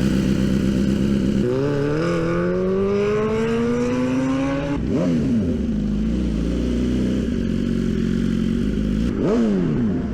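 BMW S1000RR inline-four engine running and being revved. Its pitch climbs steadily for about three seconds, then drops, and it gives quick throttle blips near the middle and again near the end.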